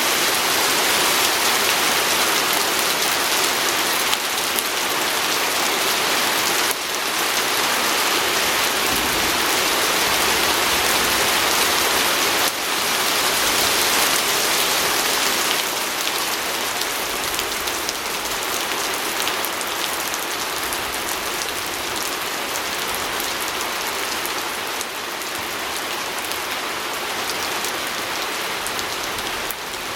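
Steady rain falling on a window pane, a dense hiss of many fine drop ticks, easing slightly after about halfway.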